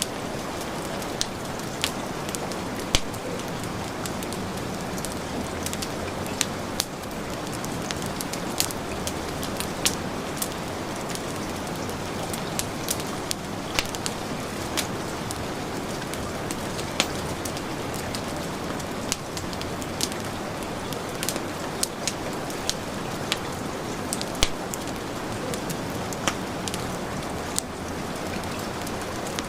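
Steady hiss of heavy rain mixed with a wood fire crackling, its sharp pops and snaps coming irregularly every second or so.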